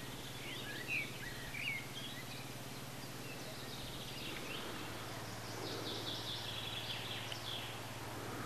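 Wild birds calling: a few short high chirps in the first two seconds, then a quicker run of song notes from about five and a half to seven and a half seconds in, over a steady low hum.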